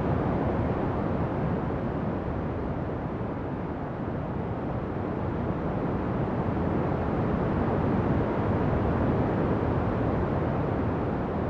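Ocean surf: a steady low rush of waves that eases slightly about four seconds in and swells again toward the end.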